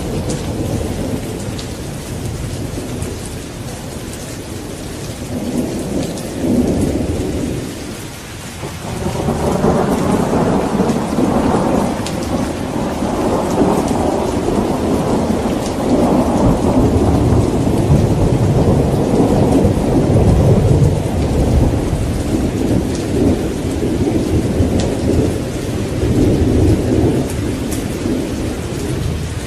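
Steady rain with thunder rumbling throughout. The rumble eases off briefly about eight seconds in, then a long roll of thunder builds and goes on in waves to the end.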